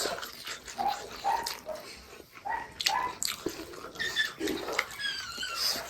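Close-miked chewing of dry meat: repeated wet mouth smacks and clicks about twice a second, with a brief high squeak about five seconds in.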